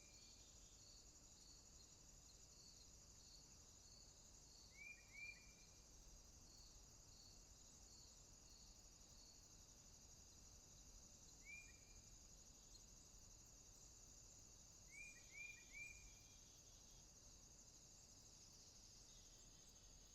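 Faint rainforest night ambience: a steady high insect chorus, with one insect's pulsed call repeating about twice a second through the first half. Short chirping calls stand out over it, two about five seconds in, one near the middle and three in quick succession around three quarters through.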